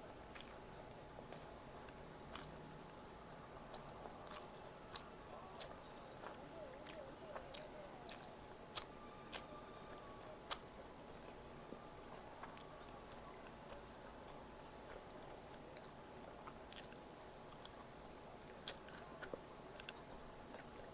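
A person chewing and biting food close to the microphone, with scattered small sharp clicks; two louder clicks come about 9 and 10.5 seconds in.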